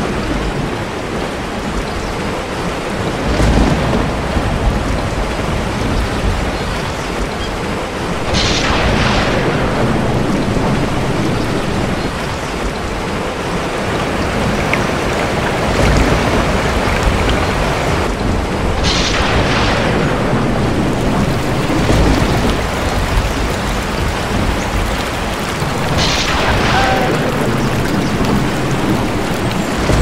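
Steady heavy rain with thunder: three sharp cracks spread through, with deep low rumbles in between.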